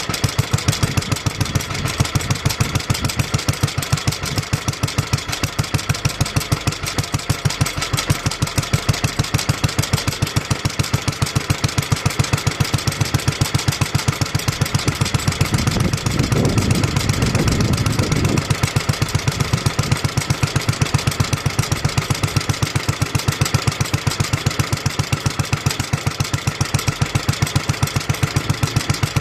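1954 Petter A1 single-cylinder two-stroke stationary engine running steadily at idle, shortly after a cold start, with an even beat of firing strokes. About two-thirds of the way through, a louder low rumble lasts for about two seconds.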